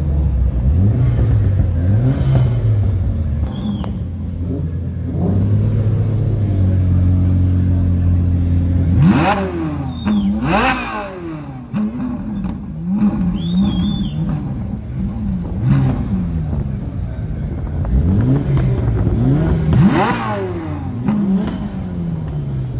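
Ferrari 458 Italia's V8 idling and being revved in sharp blips that rise and fall in pitch, the biggest pair about nine to eleven seconds in and another pair around twenty seconds in.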